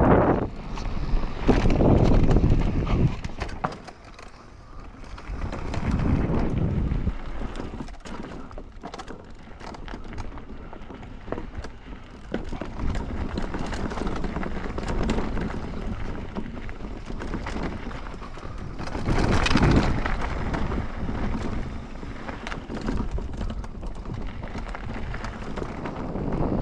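Mountain bike rolling down a dirt trail: tyres crunching over dirt and rocks and the bike rattling and knocking over bumps, with wind buffeting the microphone in louder surges a couple of times.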